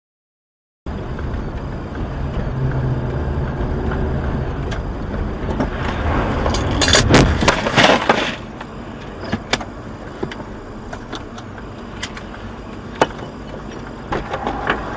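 Car driving with engine and road noise, then a burst of loud bangs and crunches about six to eight seconds in, typical of a collision. After it the engine rumble drops away, leaving quieter noise with scattered clicks.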